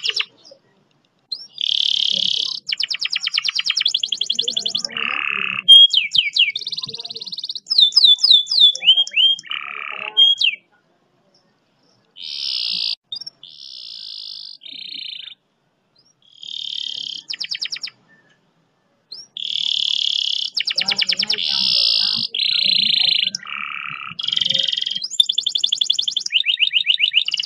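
Domestic canary singing: phrases of fast rolling trills and gliding whistled notes, broken by a few short pauses.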